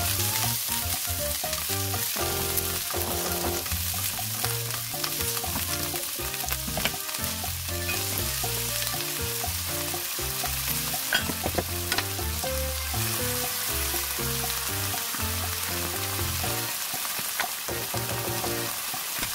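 Broccoli and garlic cloves sizzling steadily in hot oil in a nonstick wok as they are stir-fried, with a few sharp clicks around the middle.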